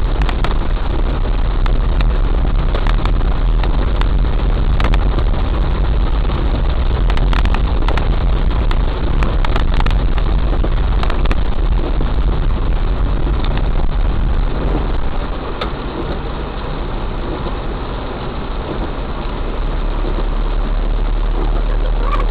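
Heavy rain falling on a car, many drops ticking sharply on the body and glass, over the steady low hum of the car's engine running. The rain noise drops a little for a few seconds about two-thirds of the way through, then comes back up.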